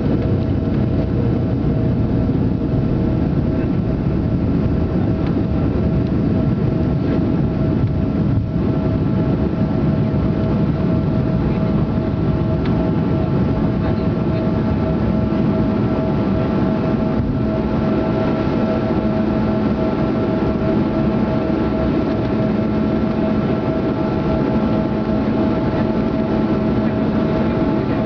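Cabin noise of a Canadair CRJ-200 regional jet, its rear-mounted turbofan engines running steadily: a constant low rumble with a steady whine on top.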